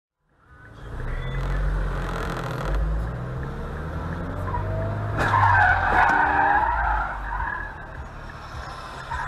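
A car driving, then tyres squealing in a skid for about two seconds, starting a little after five seconds in with a sharp knock.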